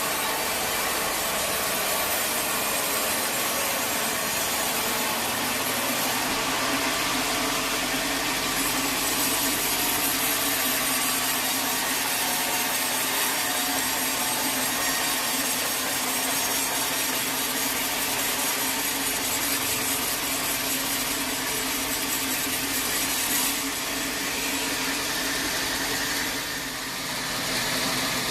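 Sawmill saw cutting through a teak log: a steady, continuous cut with a faint whine, easing briefly near the end before picking up again.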